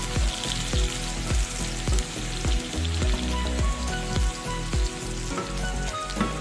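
Diced onion sizzling in oil in a frying pan as it is stirred with a wooden spoon, over background music with a steady beat.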